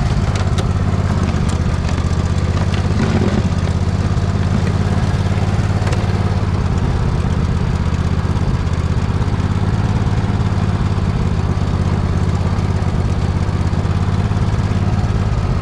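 Poulan riding lawn mower engine running steadily under load while it pushes snow with a front plow.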